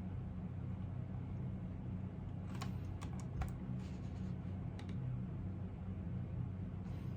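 Typing on a computer keyboard: a short run of separate keystroke clicks about halfway through, and one more near the end, over a steady low background hum.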